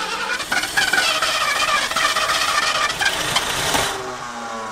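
Long-dormant carbureted Ford engine firing roughly on the starter with a loud rushing, blowing sound, which the crew takes for possibly stuck valves. About four seconds in it drops off and winds down with a falling tone.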